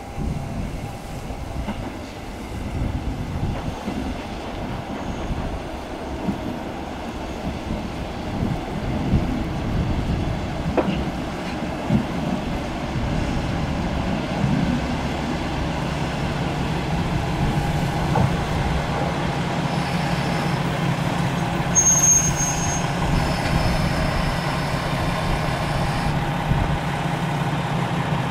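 Diesel railcar on the line: a low, uneven rumble, then a steady low drone from about halfway through as it stands running. A short high-pitched squeal comes about three-quarters of the way in.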